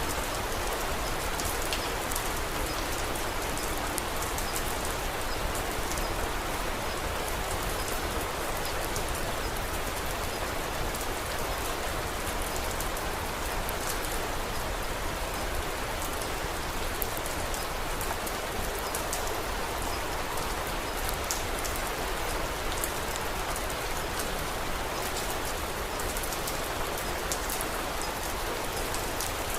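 Steady rain falling, an even hiss with many small sharp ticks of drops scattered throughout.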